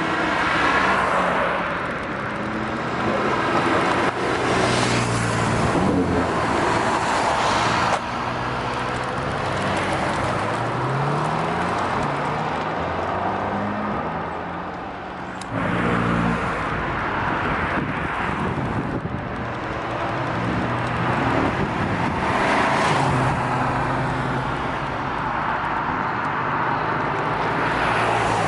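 Performance cars and motorbikes accelerating and revving past one after another, their engine notes rising and falling. The sound changes abruptly twice.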